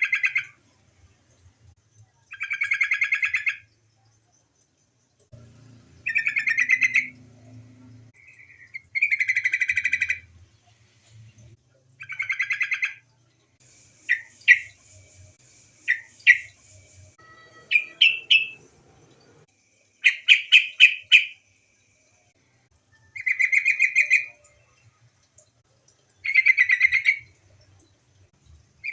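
Female yellow-vented bulbul (trucukan) calling: repeated bursts of rapid chattering notes, each about a second long and coming every few seconds, with a cluster of short, sharp single calls in the middle.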